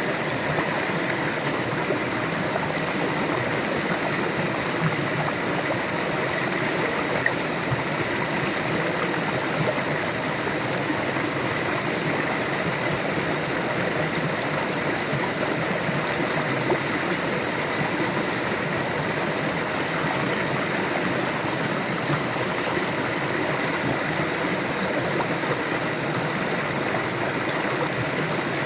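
River water flowing, a steady rushing sound with no change in level.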